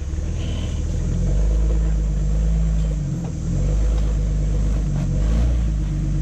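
Jeep engine working under load while crawling over rough trail, a low rumble that swells and eases with the throttle and drops off briefly about three seconds in.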